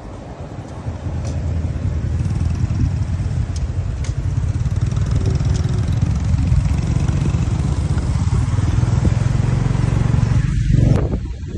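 Steady low rumble of a moving road vehicle mixed with wind buffeting the microphone. It dips briefly near the end.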